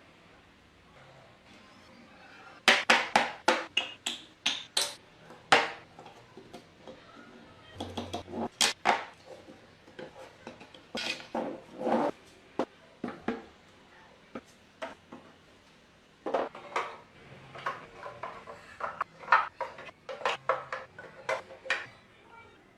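Runs of sharp taps and clicks, hard small pieces knocking and clinking together while a wooden model is worked by hand, with quieter gaps between the runs.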